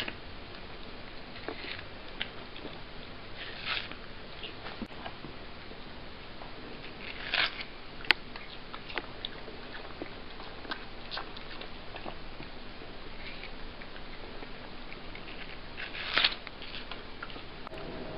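A cat chewing and biting into watermelon: scattered small wet clicks, with three louder short bites, about four, seven and sixteen seconds in.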